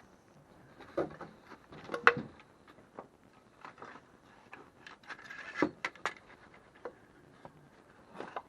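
Pieces of firewood being handled, with irregular wooden knocks and clatter; the sharpest knock comes about two seconds in, and a cluster follows near the middle.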